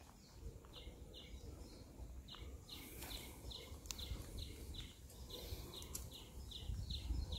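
A small bird chirping over and over, short high notes about two or three a second, faint over a low outdoor rumble.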